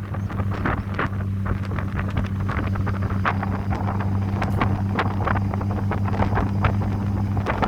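Heavy wind buffeting on the microphone over the steady drone of an Audi TT 225 Quattro's engine during a drive.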